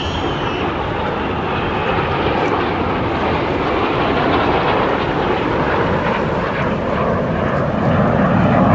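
Fixed-wing aircraft flying past at an air show: a steady rush of engine noise that grows a little louder toward the end, with a faint high whine falling slowly in pitch near the start.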